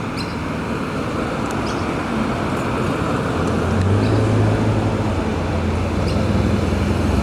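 A car's engine running at low revs as it rolls slowly past, with a low rumble that grows louder about four seconds in.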